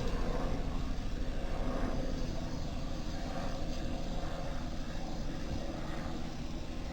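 A steady engine drone with a fast pulsing beat, slowly fading.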